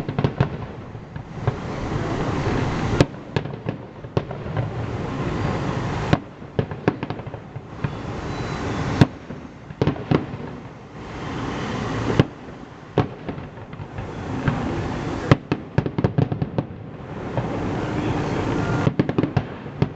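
Fireworks display: rockets bursting in quick clusters of sharp bangs and crackles, each burst echoing, over a continuous rumble from the shells.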